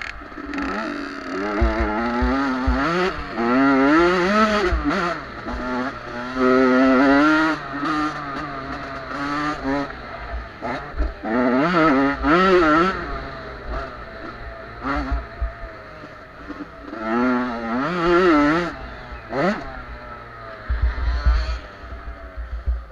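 Small-displacement two-stroke youth motocross bike engines (50–85cc) revving hard, their pitch rising and falling over and over as riders work the throttle and shift through the gears, with several bikes overlapping.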